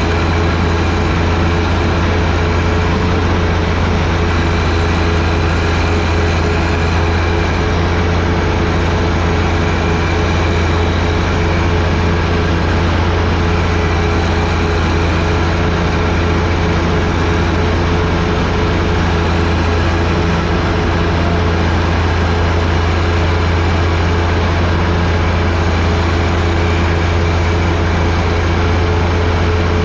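John Deere 1025R sub-compact tractor's three-cylinder diesel engine running steadily at constant speed, powering a front-mounted 47-inch snowblower.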